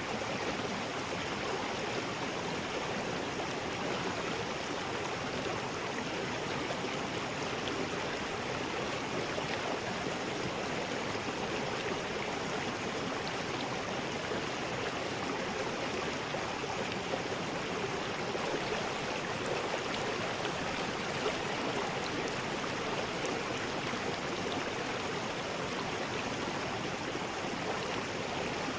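River rapids: water rushing steadily over rocks, an even, unbroken rush.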